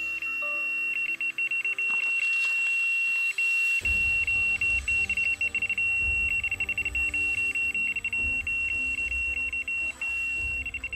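Electronic carp bite alarm sounding a rapid, high beep that runs together into a near-continuous tone: a run, a fish taking line off the reel. Background music plays underneath, with a bass beat coming in about four seconds in.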